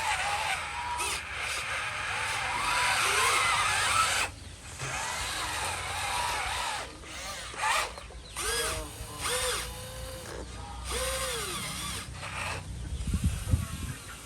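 Small electric motors of a radio-controlled construction model whining, rising and falling in pitch as they start and stop in short runs, with a cluster of low knocks near the end.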